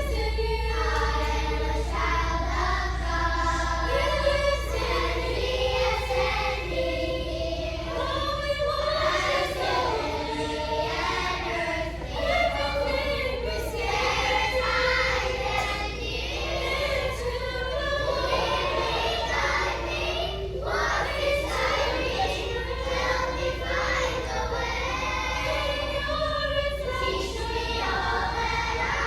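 A children's choir singing, over a low steady hum.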